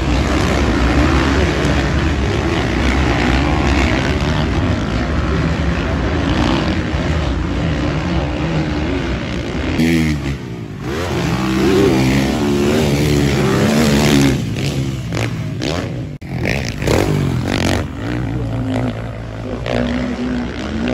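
Motocross bike engines running hard and revving, the pitch rising and falling with the throttle, with abrupt changes in the sound about ten and sixteen seconds in.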